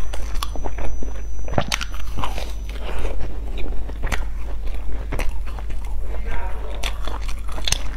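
Close-miked eating of a flaky chocolate-filled croissant: wet chewing and biting with irregular crisp crackles and snaps from the pastry.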